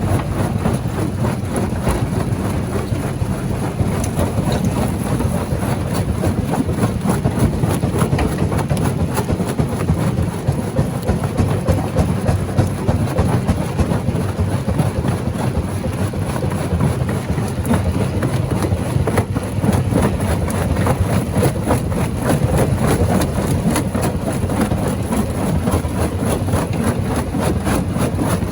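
Large rock crusher running: a steady heavy machine rumble with continual clattering and grinding of stone.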